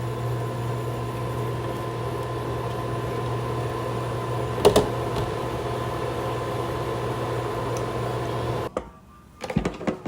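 A small motor or electric appliance humming steadily, with a single click about halfway through; the hum stops shortly before the end, leaving a few light knocks.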